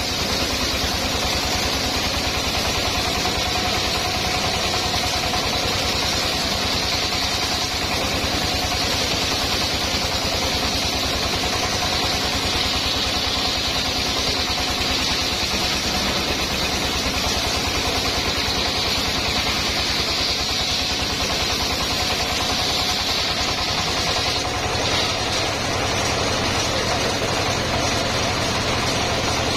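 Homemade circular sawmill running steadily, its engine and spinning saw blade making a constant machine noise with a fast low pulsing.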